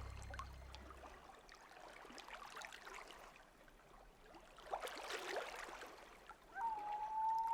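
Faint lapping water as the background music fades out in the first second, with scattered small splashes and a louder patch about five seconds in; a steady held tone begins near the end.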